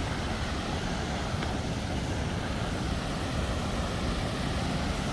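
Steady, even rush of a large waterfall, Chitrakote Falls on the Indravati River, with the water pouring down close by.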